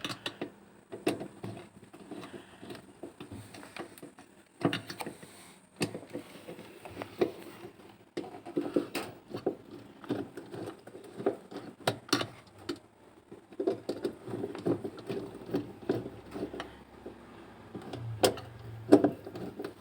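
Irregular small clicks, taps and scrapes of a tool and plastic parts as a bolt is undone on a top-loading washing machine, with a few sharper knocks.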